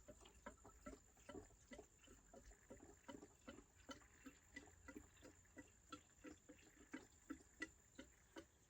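Faint glugging of 50:1 two-stroke gas mix being poured into a chainsaw's fuel tank: a quick, irregular run of small gurgles, several a second.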